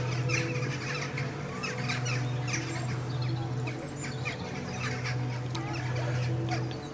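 Many birds calling at once, a dense chatter of short, quick chirps overlapping throughout, over a low steady hum.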